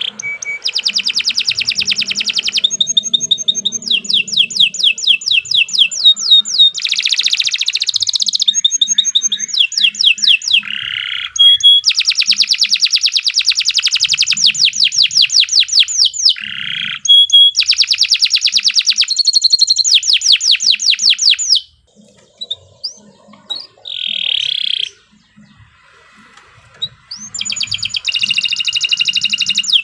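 Domestic canary singing: long, fast trills of rapidly repeated high notes, phrase after phrase, with short rasping buzzes between them and a brief pause about two-thirds of the way through.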